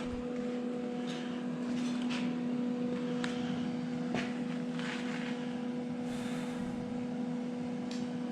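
A steady machine hum of one even pitch with overtones, with a few faint short hisses over it.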